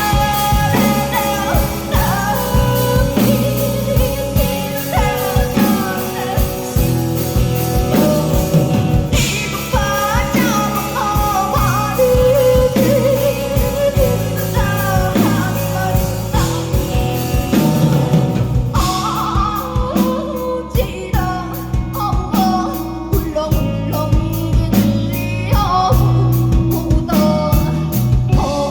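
Live band performance with a woman singing over drums, bass and guitar, the drums keeping a steady beat. About two-thirds of the way through the high cymbal wash falls away, leaving a sparser beat under the voice.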